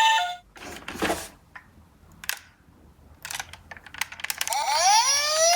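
Small plastic clicks and knocks from toy minicars being handled. Near the end, a toy emergency vehicle's electronic siren starts up, its pitch rising and then holding steady.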